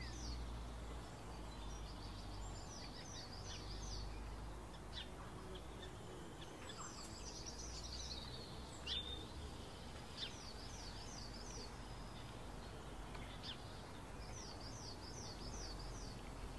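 Birds singing: a short phrase of four or five quick high notes, repeated three times several seconds apart, with single sharp chirps in between, over a faint low steady rumble.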